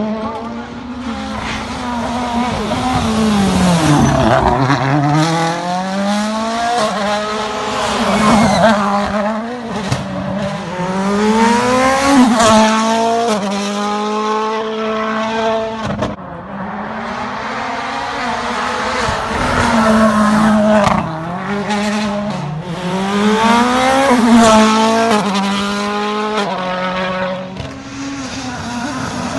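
World Rally Cars with 1.6-litre turbocharged four-cylinder engines driven flat out on a special stage. The engine note climbs and drops again and again through gear changes, with sharp cracks among the shifts. After a short lull about halfway through, a second run of the same revving follows.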